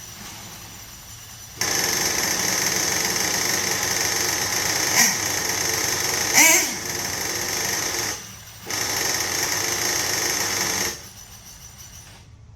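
HPI Savage nitro RC engine idling quietly, then running hard at high revs in two bursts, a long one of about six seconds and a shorter one of about two, each starting and stopping abruptly, before dropping back to a low idle.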